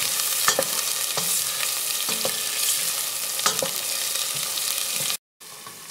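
Spiced masala paste frying in hot oil in a pressure cooker, sizzling steadily, its water cooked off and the oil separated, with a few sharp knocks of the stirring spoon. The sizzle cuts off abruptly near the end.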